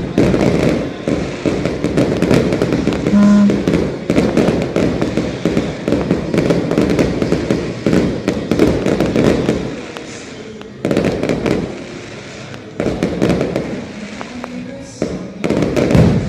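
Fireworks display: a rapid barrage of shells bursting and crackling, thinning after about ten seconds into separate louder bursts with short gaps between them.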